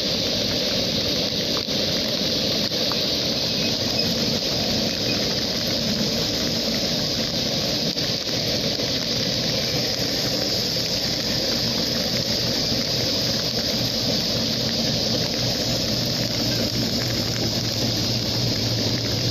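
A train running through heavy rain: a steady rushing noise, with a low engine hum that grows more distinct about halfway through.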